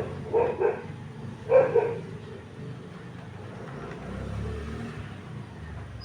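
A dog barking three times in the first two seconds, short sharp barks, over a steady low rumble.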